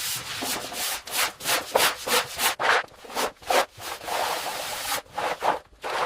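Repeated abrasive rubbing strokes, like scrubbing or sanding a surface, about three a second, thinning out near the end.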